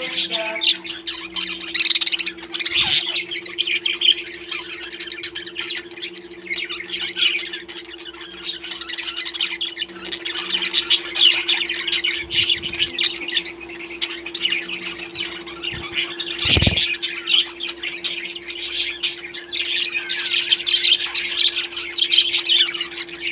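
Pet parrots chattering continuously with squawks and chirps, over a steady electrical hum; a single knock sounds about two-thirds of the way through.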